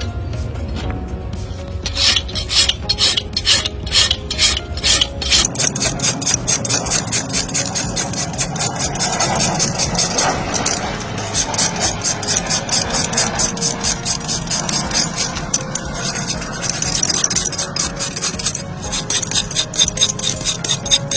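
Farrier's rasp filing a horse's hoof in rapid, regular back-and-forth strokes.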